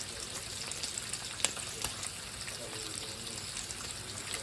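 Food sizzling in a hot frying pan, a steady hiss broken by a few sharp crackling pops.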